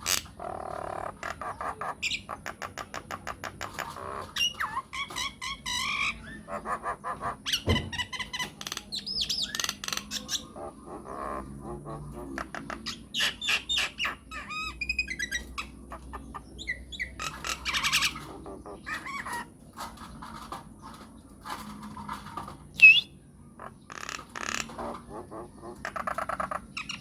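Myna (jalak) singing a varied run of squawks, rapid chattering and whistled calls, with one sharp, loud call near the end. It is the kind of song played to provoke caged mynas into answering.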